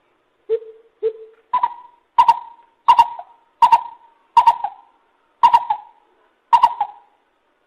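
Lesser coucal calling: a series of nine notes, the first two lower, then seven higher, louder notes spaced out about a second apart.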